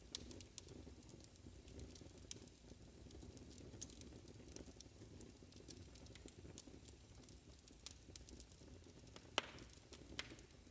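Faint wood fire crackling in a fireplace: irregular small pops and snaps over a low, soft rumble, with one sharper pop about nine seconds in.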